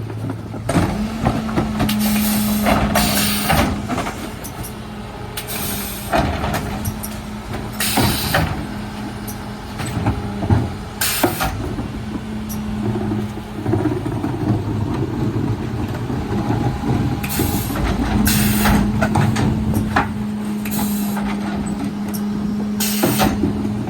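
Mercedes Econic refuse truck with a Faun Variopress body working at the kerb: engine and hydraulics running with a steady hum that drops out for a few seconds around the middle, broken by several short hisses of air and some knocks.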